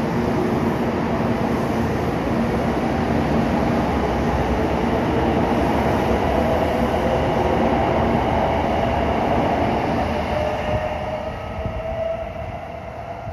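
Shinkansen train pulling out past the platform: a loud steady rush of wheels and running gear with a motor whine that climbs slightly in pitch as the sound fades over the last few seconds.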